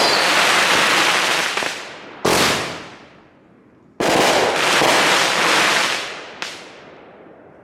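Consumer fireworks going off: a dense crackle that dies away, a sharp bang about two seconds in, then a sudden new loud burst about four seconds in that crackles for two seconds and fades, with one smaller bang near the end.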